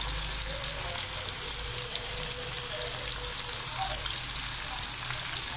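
Raw potato fries frying in hot oil in a pan: a steady sizzle with fine crackling.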